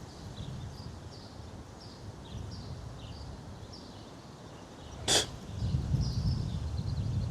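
Wind buffeting the microphone, rising in the last two seconds, with a short high chirp repeating about twice a second and one sharp click about five seconds in.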